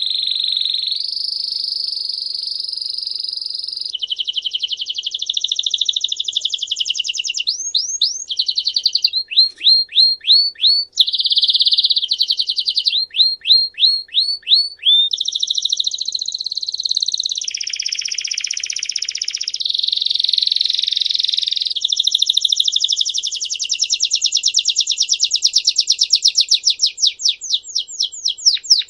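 A songbird singing a long, unbroken song of trills and repeated phrases: fast rattling trills alternate with series of sharp downward-sliding notes, several a second, all high-pitched.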